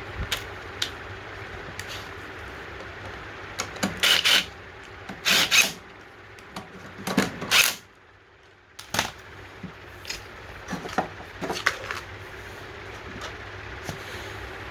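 Scattered small clicks and knocks of parts and tools being handled on a workbench, with three short hissing bursts a few seconds in, over a steady low hum.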